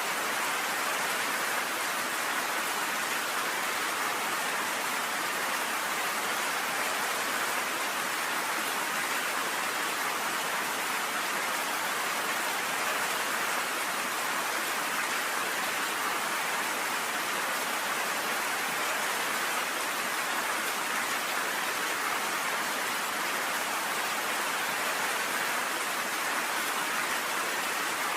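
Rain falling steadily on a cabin porch: an even, unbroken hiss with no thunder.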